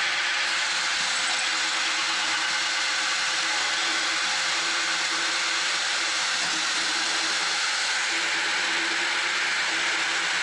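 Kobalt XTR 24-volt cordless drill spinning a large hole saw as it cuts into wood, running steadily under load. The hole saw is old and dull.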